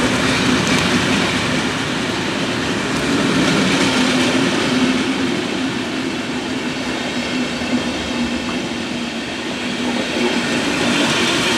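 A train rolling along the track, its wheels running on the rails, with a steady low hum underneath.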